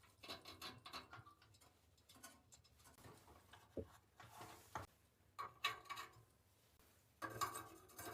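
Faint clicks, ticks and light rustling of hands handling a gas stove's replacement thermocouple probe and threading its wire through a hole, with a couple of sharper clicks about four and five seconds in and louder handling near the end.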